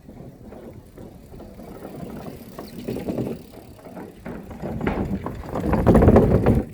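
Bicycle rolling along with a rattling, bumpy rumble. It grows louder toward the end, then cuts off suddenly.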